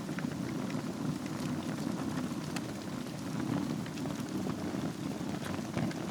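Wood fire burning in a fireplace over glowing embers: a steady low rush of flame with scattered sharp crackles and pops.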